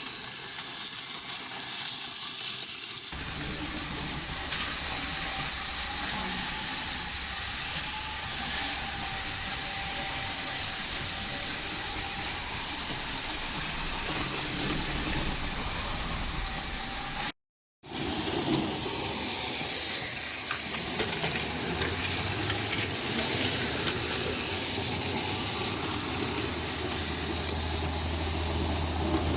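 Battery-powered TOMY motorized toy trains running on plastic track: a steady hissing whir of their small motors and gears, with a brief break a little past halfway.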